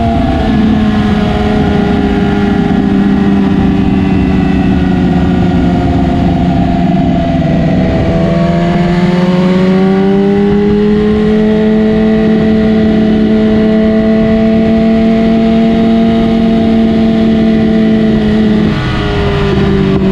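2017 BMW S1000RR's inline-four engine through an Austin Racing exhaust, running at steady revs while being ridden. The revs dip and come back up about eight seconds in, and drop briefly again near the end.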